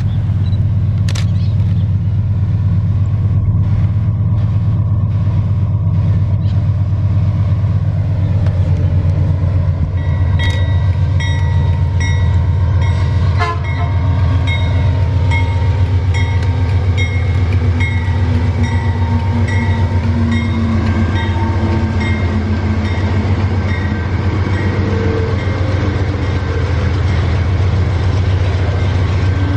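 A train locomotive running close by with a steady, loud, deep engine rumble. From about ten seconds in, a higher tone sounds again and again, about once a second, over the rumble.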